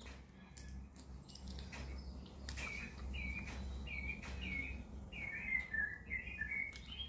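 Bird chirping: a quick series of short, repeated chirps starting a couple of seconds in, with a few faint clicks alongside.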